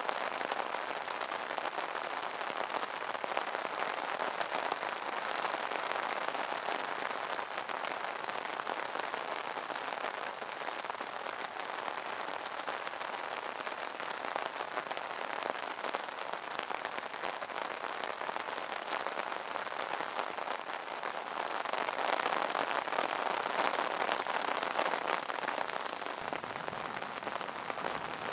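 Steady rain pattering on an umbrella canopy, a dense even spatter of drops that swells a little about three quarters of the way through.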